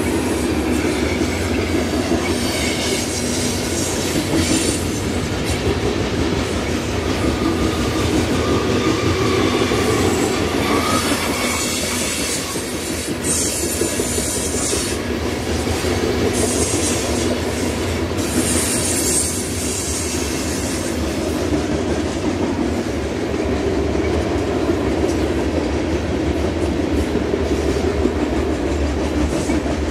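Covered hopper cars of a long freight train rolling past, with a steady rumble and clatter of steel wheels on the rails. Squealing from the wheels comes and goes through the middle of the passage.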